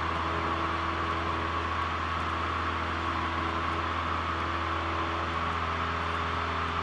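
Cessna 172L's four-cylinder Lycoming engine and propeller running at full power in the climb after takeoff: a steady drone with a slight change in tone about five seconds in.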